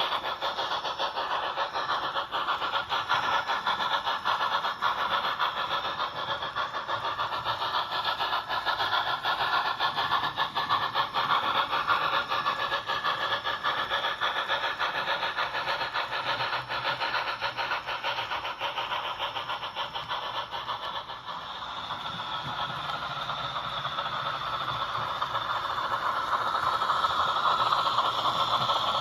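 Small model-locomotive motor and gear train running with a steady rattle and fine rapid ticking, easing off about two-thirds of the way in and picking up again near the end.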